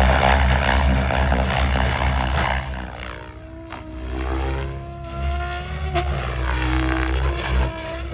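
Tron 7.0 Advance electric model helicopter in flight, its rotor and motor whine sliding up and down in pitch as it manoeuvres. It is loudest at the start, falls away a few seconds in, then comes back.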